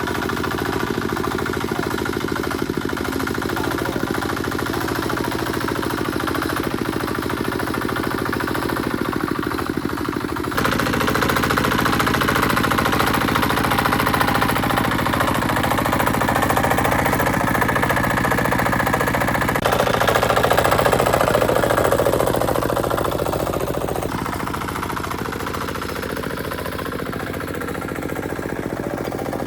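Tractor engine running with a steady knocking beat, as when plowing. It grows louder about a third of the way in and eases off again near the end.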